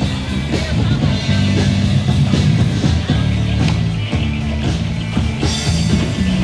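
A live rock band playing, with held bass and guitar notes under regular drum hits.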